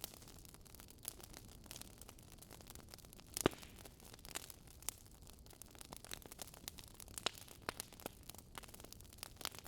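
Campfire crackling: irregular sharp pops and snaps of burning wood over a faint steady hiss, the loudest pop about three and a half seconds in.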